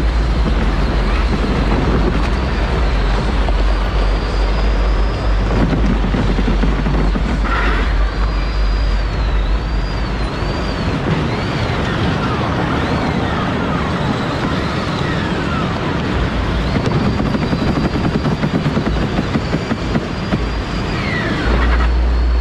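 Power Wheels electric ride-on toy car driving, its motor and gearbox whining in a high pitch that rises and falls again and again as it speeds up and slows, over a continuous rush of running noise. A heavy low rumble drops away about six seconds in and returns near the end.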